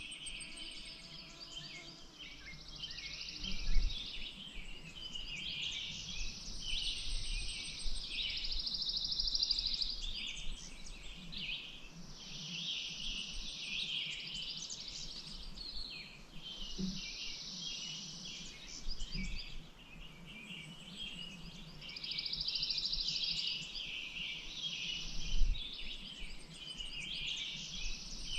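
Songbirds singing, phrases of two to three seconds repeating every few seconds, some ending in fast buzzy trills, over a faint low rumble. Two short low thumps, about four seconds in and near the end, are the loudest moments.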